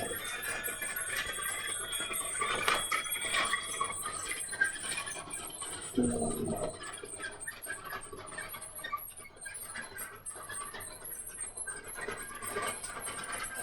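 Hands rummaging through a pile of small pieces, with scattered light clicks and rustling throughout the search.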